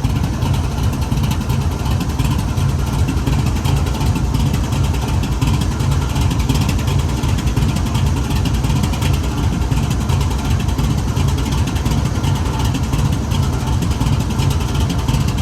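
A pair of GE WDG4G diesel-electric locomotives idling, their GEVO-12 diesel engines giving a steady low rumble with a crackling exhaust.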